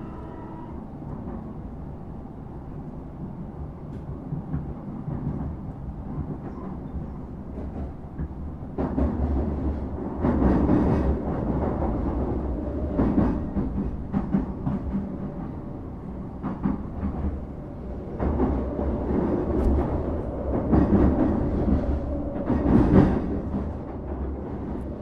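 Train running on the rails, heard from inside the carriage: a steady low rumble, then from about nine seconds in louder, uneven clattering and knocking of the wheels over rail joints and points.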